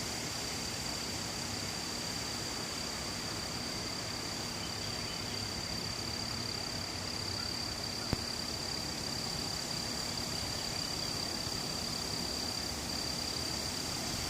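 Steady outdoor ambience: an even hiss with a constant high-pitched drone throughout, and one brief click about eight seconds in.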